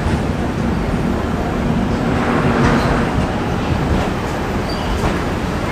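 Deccan Express passenger train rolling along a station platform, a steady rumble of wheels and coaches heard from aboard the train.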